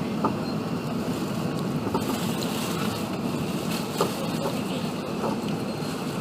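Steady low rushing cabin noise inside an Airbus A380 in flight, from airflow and engines, with a few faint clicks.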